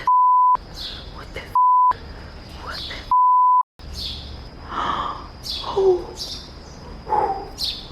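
Three short censor bleeps, each a steady pure beep with the rest of the sound cut out, blanking the vlogger's swearing; the last follows about three seconds in. Low breathy talk runs on between and after them.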